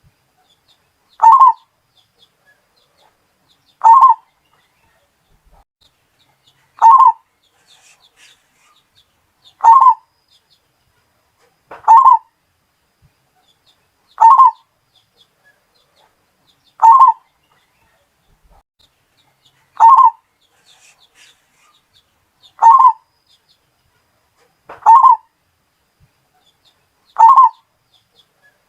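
Zebra dove (perkutut) cooing: a short call of a few notes, repeated eleven times at an even pace of about one every two and a half to three seconds, with quiet between calls.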